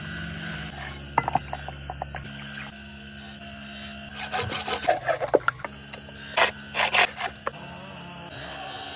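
Short bursts of rasping and scraping strokes, a tool working animal horn, in three clusters over a steady low hum.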